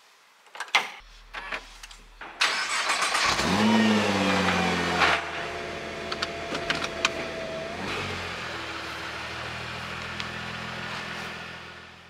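A car engine is started: a few clicks and knocks, then about two seconds in it cranks and catches, flares up in revs and drops back, settling into a steady idle. A few sharp clicks come while it runs, as the automatic gear selector is worked, and the sound fades out near the end.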